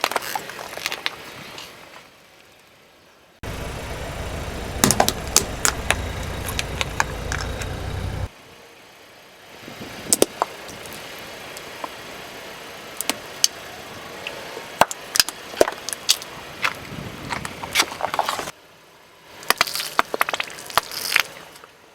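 A car's tyre rolling over and crushing brittle objects: runs of sharp cracks and crackles in several short cuts, one of them over a steady low rumble of engine and tyres.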